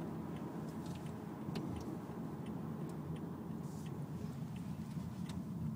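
Steady low rumble of road and engine noise inside the cabin of a 2012 Toyota Camry being driven, with faint, irregular ticks scattered through it.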